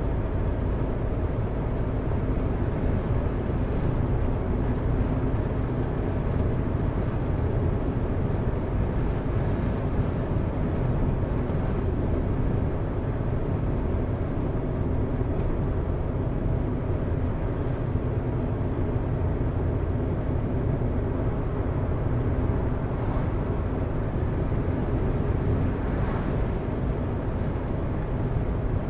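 Car driving on a road: a steady low rumble of tyres and engine that holds an even level throughout.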